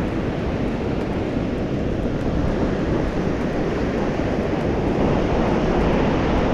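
Strong gusting wind buffeting the microphone, a steady rumbling rush, with surf breaking on the beach beneath it.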